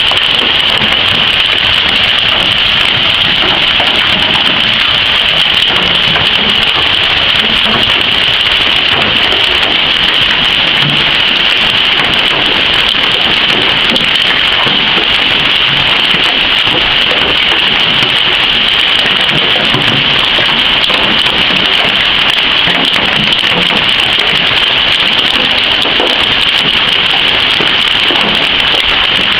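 Heavy hail storm: hailstones pelting down in a loud, steady, dense clatter of many small impacts.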